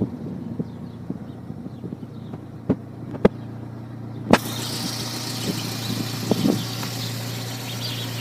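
Car engine idling steadily, with a few sharp clicks. A hiss comes in suddenly a little past halfway.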